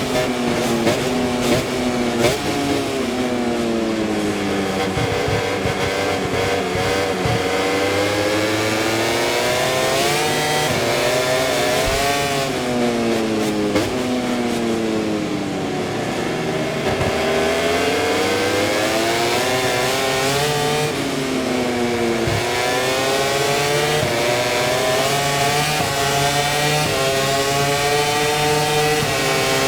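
Aprilia RS-GP MotoGP bike's V4 engine at racing speed, heard from the onboard camera. The engine note climbs in steps as it is revved hard up through the gears, then drops away under braking for corners, several times over.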